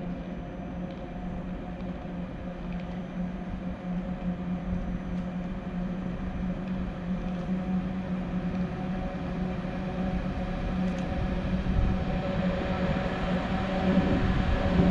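Electric locomotive approaching through the station: a steady electrical hum over a low rail rumble that grows louder as it nears, most clearly in the last few seconds.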